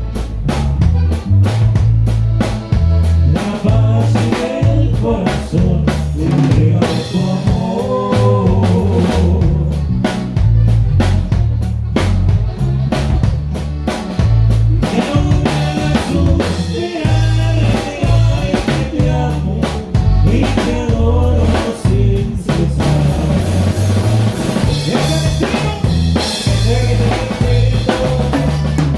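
Drum kit played to norteño band music, with steady bass drum, snare and rimshot hits over a bass line and melody.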